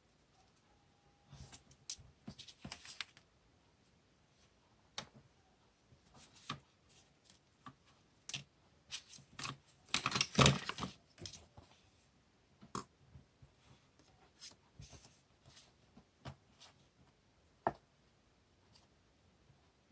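Paper craft materials handled on a desk while decorating a journal: scattered rustles, taps and crinkles, with the loudest burst of crinkling about ten seconds in.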